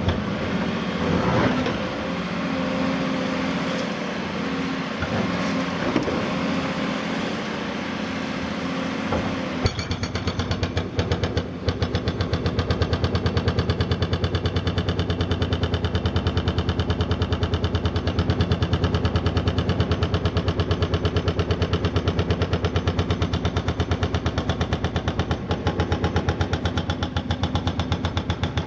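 Cat 330F excavator's Cat C7.1 diesel engine running with a few scattered knocks. About ten seconds in, its hydraulic breaker hammer starts up: a rapid, even hammering of many blows a second that keeps going over the engine.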